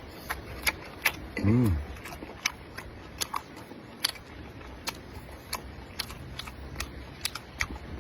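Close-up eating sounds: scattered sharp clicks and smacks of chewing. There is a short hummed 'mm' about one and a half seconds in.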